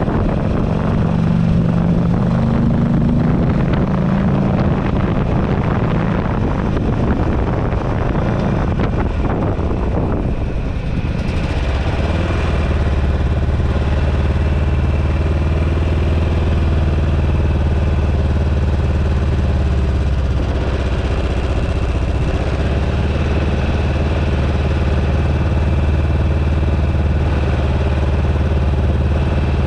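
2008 Buell Ulysses XB12XT's air-cooled V-twin running under way with wind buffeting the bar-mounted microphone; about ten seconds in the revs drop and the engine settles into a steady low, even beat.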